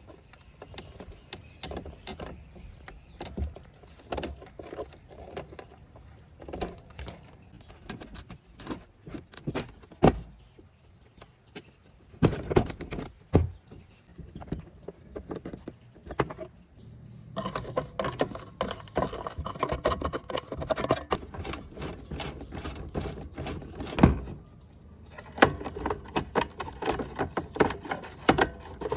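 Irregular clicks, knocks and small metallic rattles of hand tools and parts being handled during repair work. About two-thirds in there is a denser, more continuous stretch of scraping or rubbing that lasts several seconds.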